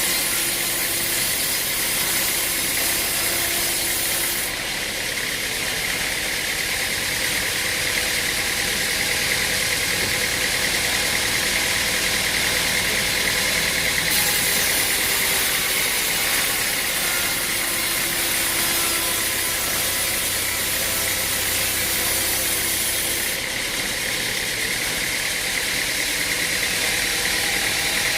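Engine-driven machinery running steadily with a loud, constant noise; the high hiss changes abruptly a few times.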